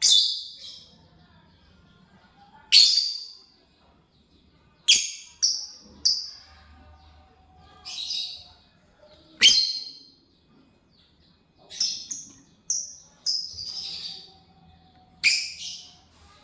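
Lovebird giving short, sharp, high-pitched chirps at irregular intervals, about a dozen in all, some in quick runs of two or three.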